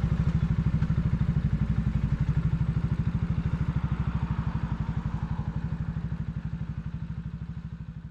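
Italika 250Z's single-cylinder four-stroke engine idling with an even, steady chug, about a dozen beats a second, slowly getting quieter over the last few seconds.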